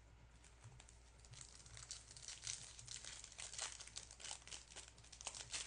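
A foil trading-card pack wrapper being torn open and crinkled by hand, a quick run of dense crackles that starts about a second in and grows busier and louder.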